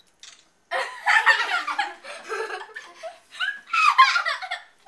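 People laughing, in bursts that start about a second in and run nearly to the end.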